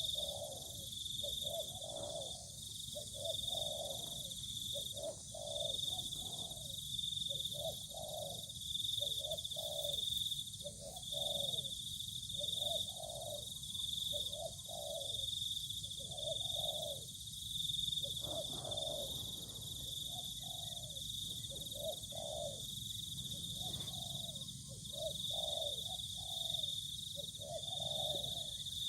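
Bird-lure call: a bird's low call notes repeated about once a second, with a steady high insect buzz throughout. The call is played to bring wild birds down.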